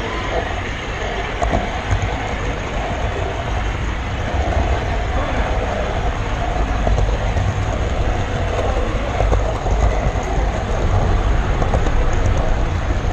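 Model railroad camera car rolling along the track, heard close up from the camera riding on it: a steady rumble from the wheels and running gear, with occasional clicks from the rail joints.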